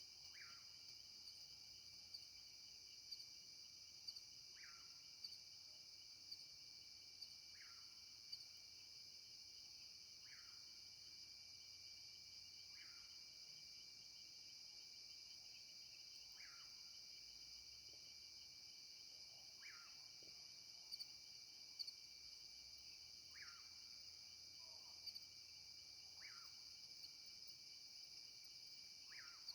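Faint, steady chorus of crickets and other insects trilling, with a short falling call repeated about every three seconds.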